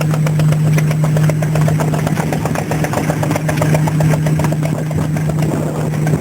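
Vintage stationary engines running at a steady speed, giving a rapid, regular beat of exhaust and valve knocks over a steady low hum.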